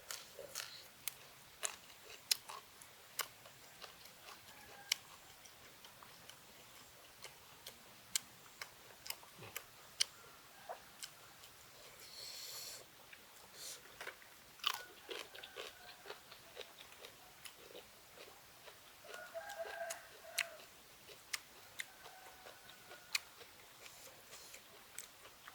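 A person chewing and biting food, with frequent sharp crunching clicks and smacks.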